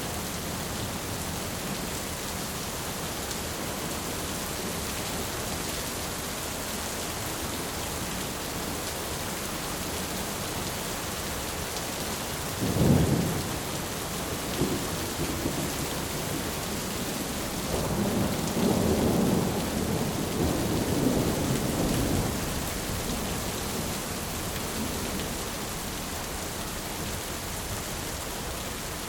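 Thunderstorm: steady rain with a sharp thunderclap a little under halfway through, then a longer rolling rumble of thunder a few seconds later.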